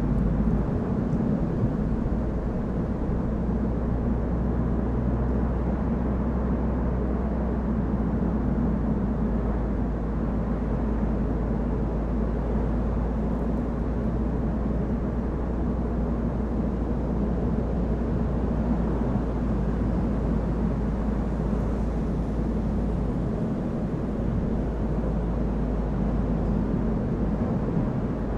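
A car driving at a steady pace: an even, low rumble of engine and tyres on the road that does not change.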